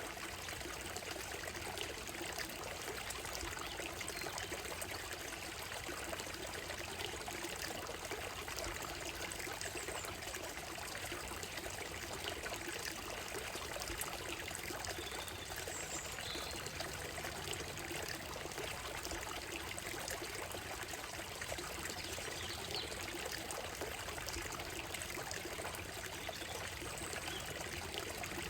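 Shallow stream running and trickling over stones and gravel, a steady, even water sound.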